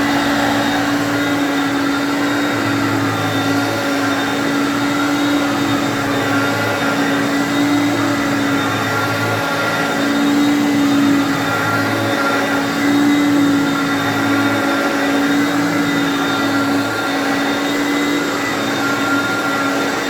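Vintage Hoover Concept vacuum cleaner's motor running steadily with a steady hum, its front and rear motor bearings freshly cleaned and greased. A lower hum swells and fades every second or two.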